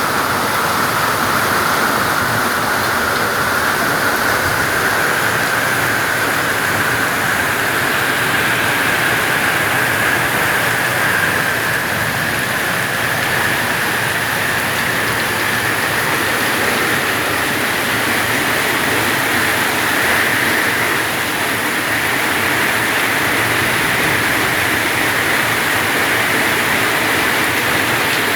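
Heavy rain falling, a steady, loud hiss of water.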